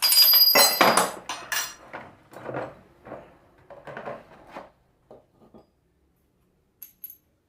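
Metal alternator parts clattering and clinking against each other and the bench as they are handled, loudest in the first second with a brief metallic ring, then thinning to a few light clinks.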